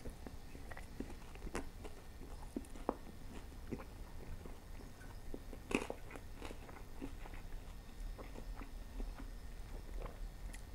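Close-miked chewing of a bite of battered fried Chinese food, with small wet mouth clicks and soft crunches. About six seconds in there is one sharper click as the fork spears food on the plate.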